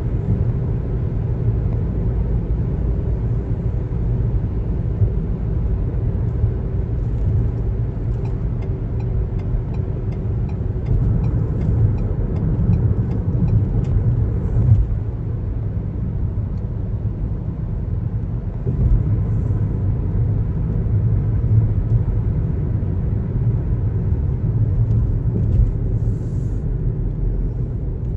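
Car driving on a highway: a steady low rumble of road and tyre noise. A run of faint, evenly spaced ticks, about two or three a second, comes through for several seconds in the middle.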